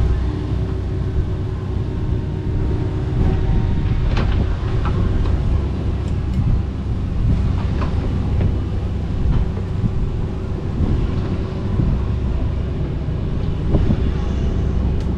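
Kobelco SK85 MSR 8-ton excavator running steadily under work, with a few short sharp cracks over the engine.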